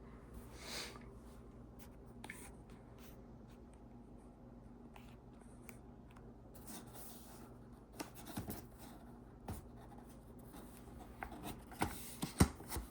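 Faint scratching and rustling of a product box being handled, with several sharp clicks and taps in the last few seconds.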